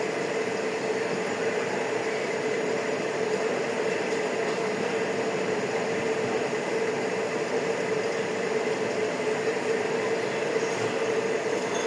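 A steady mechanical hum, one even tone over a constant hiss, unchanging throughout.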